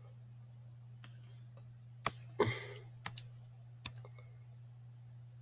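A handful of sharp clicks from computer controls being worked, between about two and four seconds in, over a steady low electrical hum.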